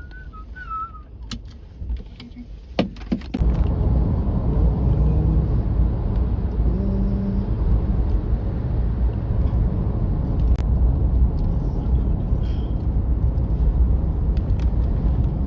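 A car driving, heard as a steady low rumble of engine and road noise. It comes in suddenly about three seconds in, after a few clicks.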